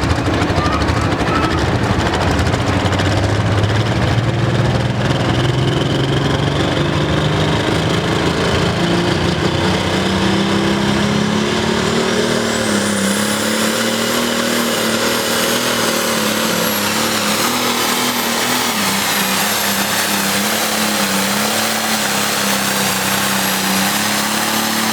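Pro stock pulling tractor (John Deere 4320) under full load dragging the sled, its engine climbing in pitch over the first ten seconds and then holding hard with a slight waver. A high turbocharger whistle rises over the first half and then stays steady and shrill.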